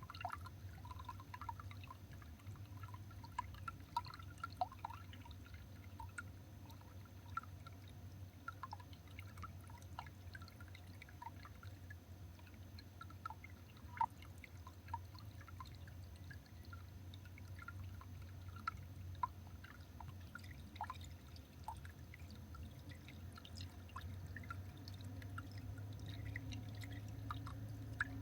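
Water dripping in irregular, scattered drops over a steady low hum.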